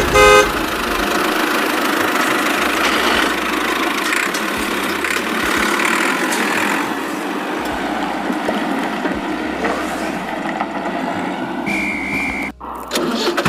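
Remote-control mini tractor running with a steady engine-like sound, a short horn beep at the very start.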